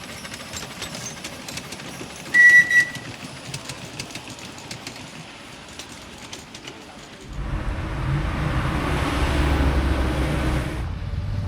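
Two short, high-pitched toots about two and a half seconds in. From about seven seconds a vehicle engine runs loud and low close by, with a hissing rush over it that drops away shortly before the end.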